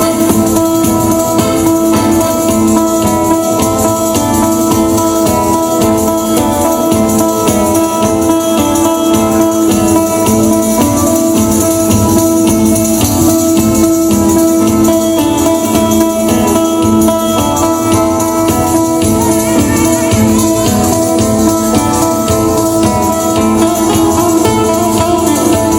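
Instrumental passage of southern Italian folk music: guitar with frame drum and jingling percussion, over long held notes.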